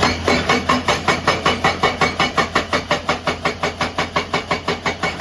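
Excavator-mounted hydraulic breaker hammering in a fast, even rhythm of about six blows a second, starting abruptly, over the steady drone of the machine's engine.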